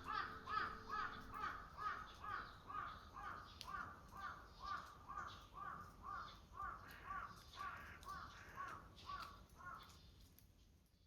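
A bird calling over and over, about three short calls a second, which stop about ten seconds in. Faint background music fades out at the start.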